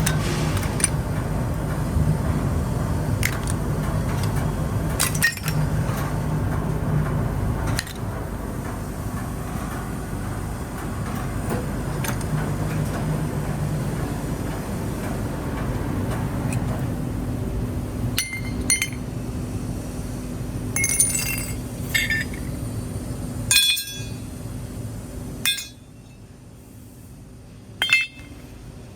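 Double-shaft aluminum shredder running with a steady low hum, aluminum scrap clinking and clanking sharply as it is torn up. The hum drops off suddenly about 25 seconds in, and one more loud clank follows near the end.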